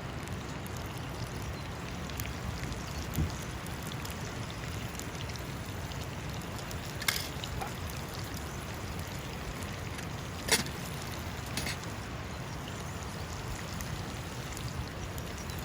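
River water running steadily, with a few sharp clicks or taps now and then.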